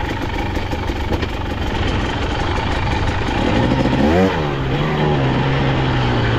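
KTM 250XC-W two-stroke dirt bike engine running under way. About four seconds in it revs quickly up and back down, then holds a steady note.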